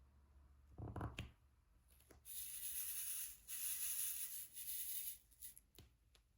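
Diamond painting supplies being handled: a soft knock about a second in, then a few seconds of scratchy, high-pitched rustling and rubbing that breaks off briefly in the middle.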